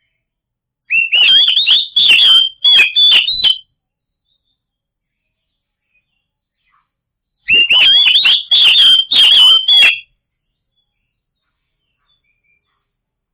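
Oriental magpie-robin (kacer) singing: two loud bursts of rapid whistled notes mixed with sharp clicks, each lasting about two and a half seconds, a few seconds apart.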